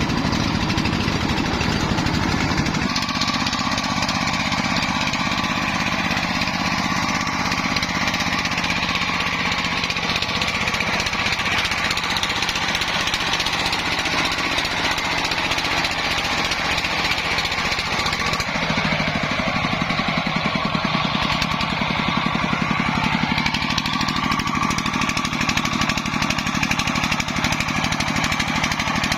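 Single-cylinder diesel engine of a công nông farm truck running with a fast, steady chugging. Its note changes about three seconds in and again past halfway.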